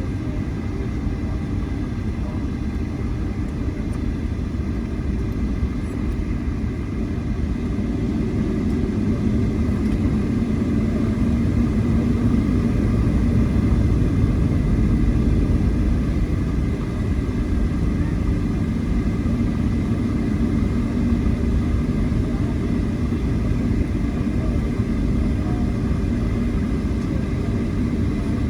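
Jet airliner cabin noise while taxiing after landing: a steady low rumble from the engines at low power, with a faint steady whine above it, swelling slightly about halfway through.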